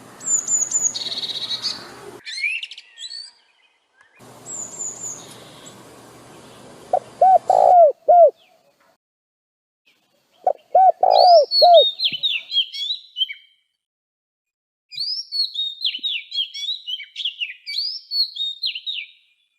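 Birdsong from several birds: high chirps over a faint hiss, two quick runs of low repeated cooing or hooting notes, then a long stretch of fast, high chirping song. The parts start and stop abruptly.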